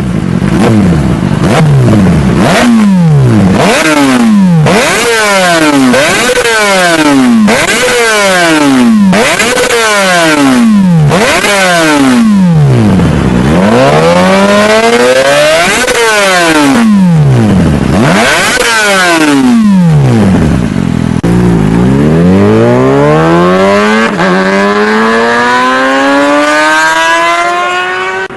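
Kawasaki Ninja ZX-25R's 249 cc inline-four revved through its exhaust over and over, each blip rising fast in pitch and falling back. Near the end it runs into one long, steady climb in pitch.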